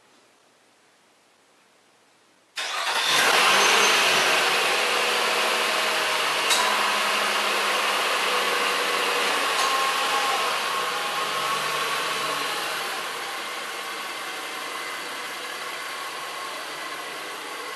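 Nissan Pathfinder's 3.5-litre V6 cranking and starting about two and a half seconds in, then idling, loudest just after it catches and gradually settling quieter.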